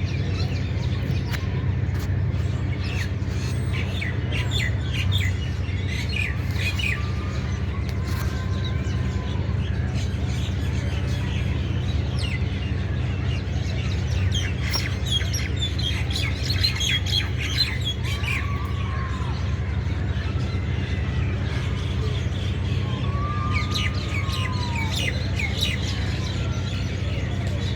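Small birds chirping in quick clusters, in three spells, with a few short slurred whistle-like notes between them, over a steady low rumble.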